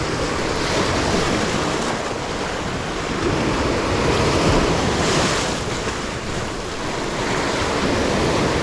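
Sea surf washing against a rocky shore, with wind buffeting the microphone; the wash swells and eases in waves.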